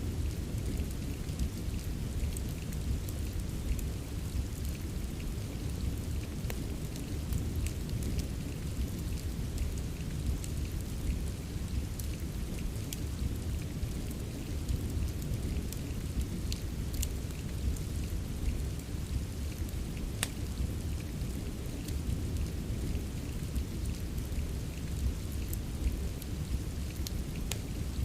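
Steady rain mixed with a crackling fireplace: a constant deep hiss, with scattered sharp crackles and pops.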